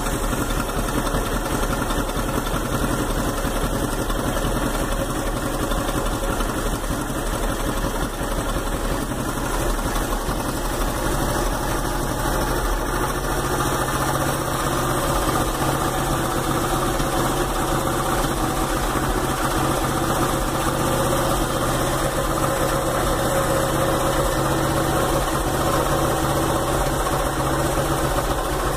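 1972 Honda XL250 K0's 248 cc single-cylinder four-stroke engine idling steadily, just started after a teaspoon of engine oil was put down the bore, and a little louder in the second half.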